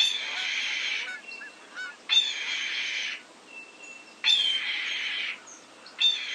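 A bird calling: four harsh, hissing screams about a second long, repeated about every two seconds, each opening with a sharp downward slur.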